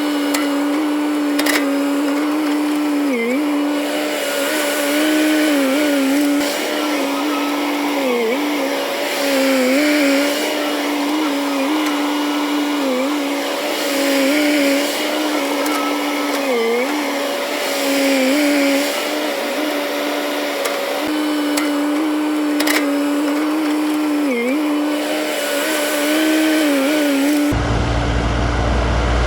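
JCB JS205 excavator's engine and hydraulics running under work with a steady high whine whose pitch dips briefly every two to three seconds as the machine takes load. Near the end it changes abruptly to a lower rumble.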